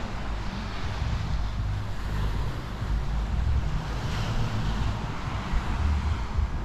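Wind buffeting the microphone, a low uneven rumble, over a steady rush of sea surf.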